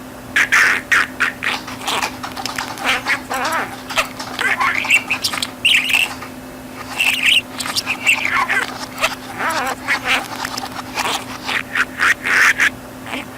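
A budgerigar chattering and warbling in a fast, continuous run of chirps and squawks, over a steady low hum.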